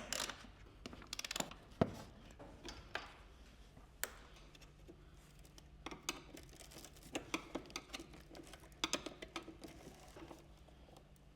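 Scattered light clicks, taps and knocks of hands and tools on metal and plastic parts as the Mazda RX-8's engine computer is unbolted and unplugged, with a sharper knock right at the start and another about two seconds in.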